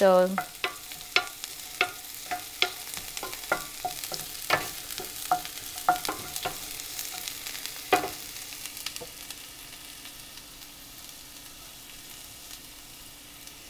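Sliced onion, dry red chillies and mustard seeds frying in oil in a nonstick pan with a steady sizzle, while a wooden spoon stirs and knocks against the pan repeatedly for about the first nine seconds. After that only the sizzle remains.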